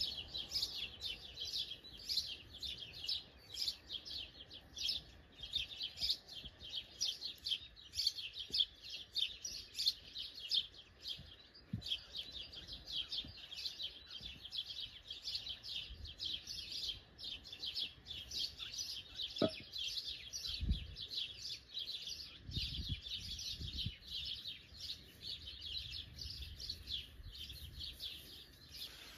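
Many small birds chirping continuously, a dense chatter of short, quick, high notes with no pause. A few soft low thuds come in the second half.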